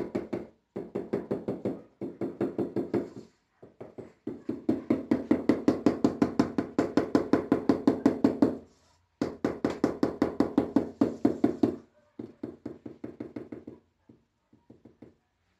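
Rapid knocking, about five sharp blows a second, in runs of one to four seconds separated by short pauses; it grows softer and sparser near the end.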